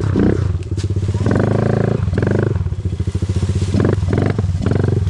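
Dirt bike engine chugging at low revs, its separate firing pulses plain, with several short throttle blips.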